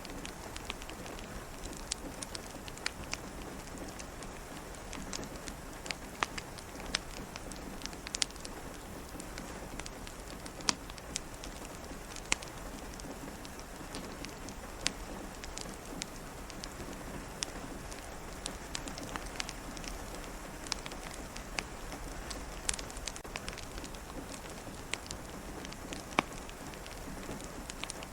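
Steady rain hiss and patter, with scattered sharp crackles and pops from a wood fire.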